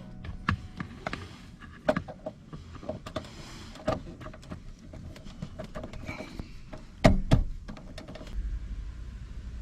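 Handling noises: scattered clicks and knocks, then two heavy thumps about seven seconds in. A steady low hum starts near the end.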